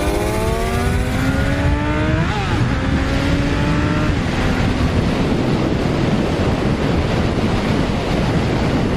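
Motorcycle engine accelerating hard: the engine note rises for about two seconds, drops at an upshift and climbs again briefly, then is buried under a loud steady rush of wind.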